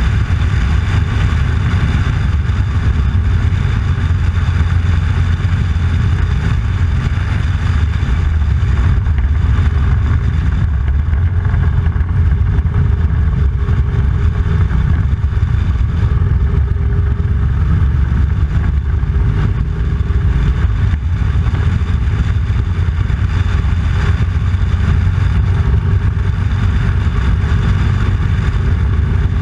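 Motorcycle engine running steadily on the road, a constant low rumble with no change in pace.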